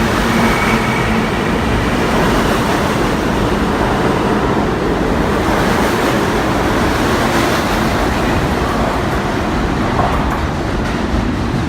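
New York City subway train running along the track: a loud, steady rumble and roar of wheels on rails.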